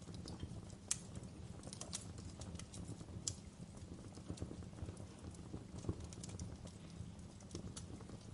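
Campfire burning with a steady low rumble and irregular sharp crackles and pops of burning wood, a few louder pops standing out.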